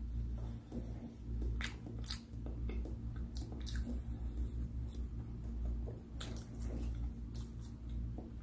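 A person chewing food, with several sharp wet mouth clicks and smacks, over a steady low hum.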